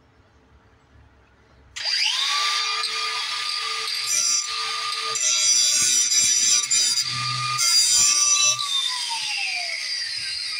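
An electric grinder switches on and spins up with a steady whine while sharpening a steel mower blade, with rougher grinding noise while the wheel is on the metal. Near the end it switches off and winds down, the whine falling in pitch.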